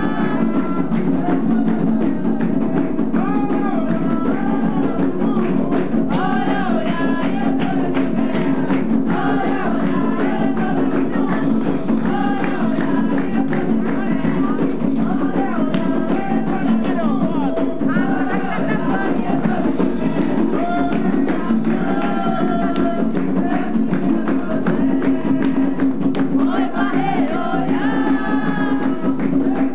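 Umbanda ceremonial music: voices singing a chant (ponto) to the orixá over continuous hand drumming and percussion.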